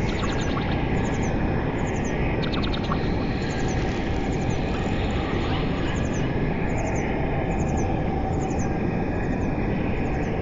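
Steady rain with birds chirping over it: short, quick falling chirps repeat about once a second, with a brief rapid trill about two and a half seconds in.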